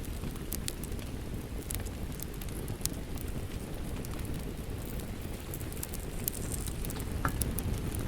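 Wood fire crackling with scattered sharp pops over a steady low rush of rain.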